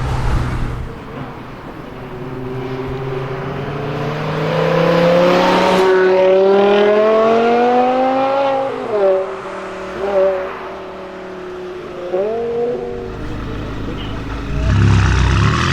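BMW car engine accelerating hard, its pitch climbing steadily for several seconds before dropping at a gearshift, followed by a few short blips of the throttle. A louder, higher-revving engine rises near the end.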